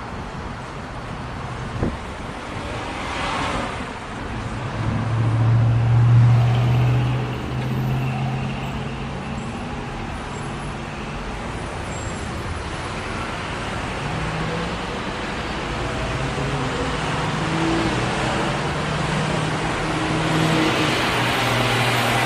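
Street traffic noise with a motor vehicle engine running close by, its low hum wavering in pitch. A vehicle passes about three seconds in, and there is a single click shortly before.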